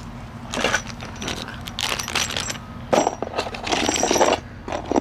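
Loose steel nails and drill bits from a fence-post repair kit clinking and rattling as they are handled, in several short bursts.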